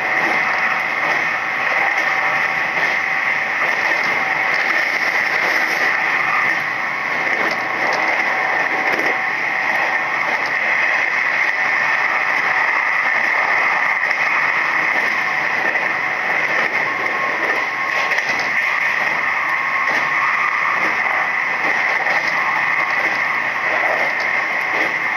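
Steady running noise inside a Nishitetsu 3000-series electric train travelling at speed along the line.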